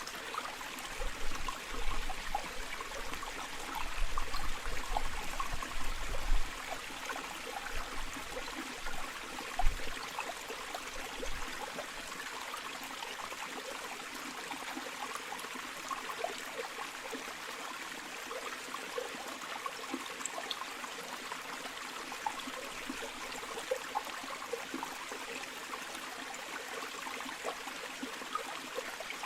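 River water flowing steadily, with many small splashes and bubbles. Low rumbling bumps come and go through roughly the first eleven seconds.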